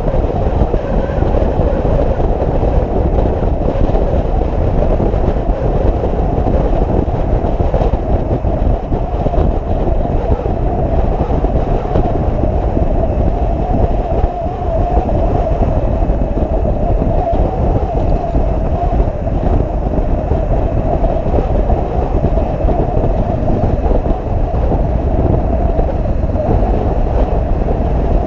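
Steady road noise from a motorcycle under way: wind rushing over the microphone and the engine running, with no let-up.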